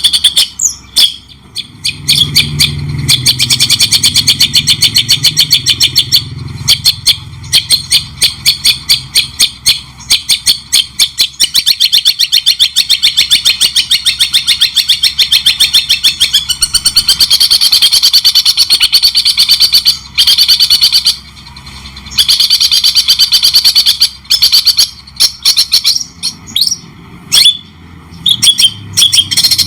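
Songbird singing long, fast runs of sharp, high chattering and trilling notes, many a second, broken by a few short pauses, including one of about a second around two-thirds of the way in.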